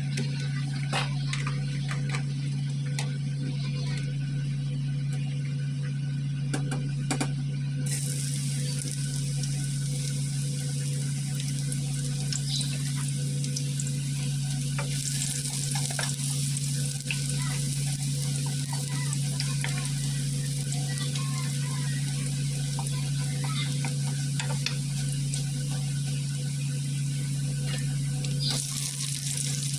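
Minced garlic sizzling in hot oil in a wok. The sizzle starts about a quarter of the way in, grows louder about halfway, and swells again near the end as sliced tomatoes go in. A steady low hum runs underneath, with a few small clicks early on.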